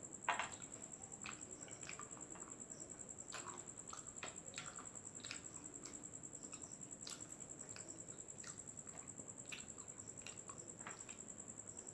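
Quiet, irregular wet clicks and smacks of a person chewing and eating by hand, over a faint steady high-pitched whine.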